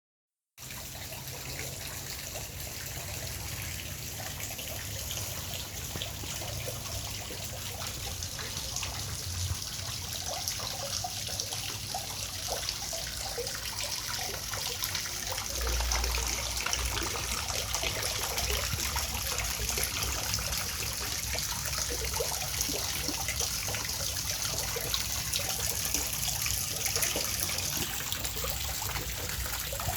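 Water trickling and splashing steadily, with small bubbling gurgles throughout.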